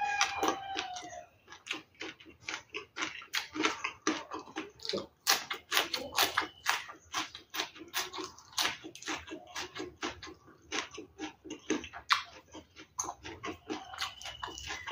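Close-up wet chewing, lip smacking and finger sucking from a person eating rice and fried fish by hand, in dense irregular smacks. A rooster crows in the background at the start and again near the end.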